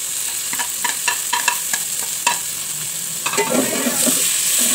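Onions frying in oil in an aluminium pot, sizzling steadily, as chopped tomatoes are scraped in from a plate with a spoon; the spoon clinks several times against the plate and pot, and the sizzle grows busier and a little louder near the end.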